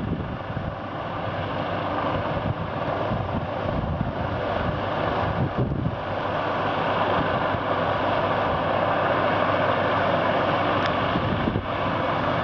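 Helicopter running overhead, a steady engine-and-rotor noise that grows louder over the first several seconds and then holds, with wind buffeting the microphone.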